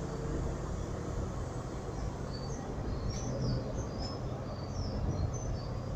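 High Speed Train (InterCity 125) diesel departing, its power cars giving a steady low rumble. Short high bird chirps come several times from about two seconds in.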